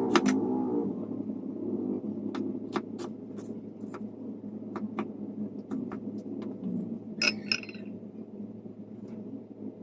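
Light clicks and clinks of kitchen handling over a steady low hum, with a brighter clatter of dishes or utensils about seven seconds in.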